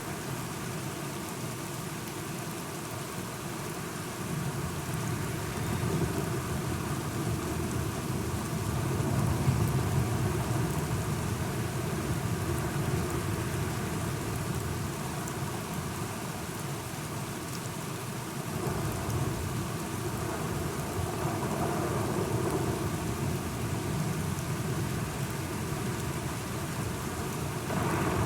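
Steady rain falling, with thunder rumbling low in the background and swelling twice, about a third of the way in and again just past the middle.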